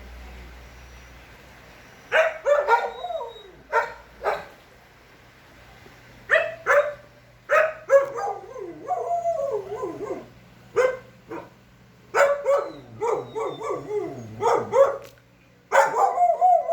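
A dog barking in repeated bursts from about two seconds in, with some higher yips among the barks.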